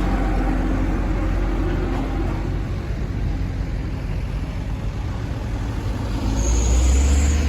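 Kobelco SK200 excavator's diesel engine running steadily, growing louder near the end with a faint high whine.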